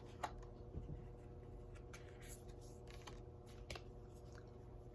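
Oracle cards being drawn from the deck and laid down: a few faint, scattered taps and rustles over a steady low hum.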